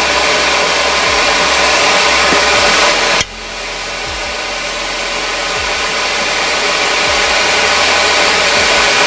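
A forge running with its air supply on: a steady rushing roar. The roar drops sharply about three seconds in and then slowly builds back up.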